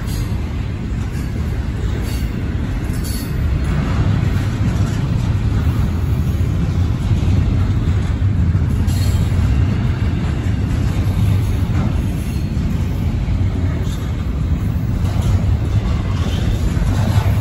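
Double-stack intermodal train's container well cars rolling past: a steady low rumble of steel wheels on rail, with a few brief faint higher-pitched wheel squeaks here and there.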